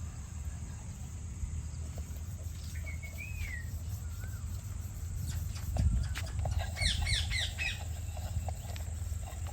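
Birds calling over a steady low rumble: a short warbled whistle about three seconds in and a quick run of chirps around seven seconds.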